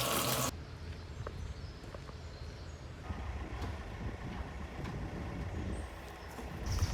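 Water running from a tap, cut off abruptly about half a second in, followed by a steady low rumble with a few faint clicks. A short high chirping comes near the end.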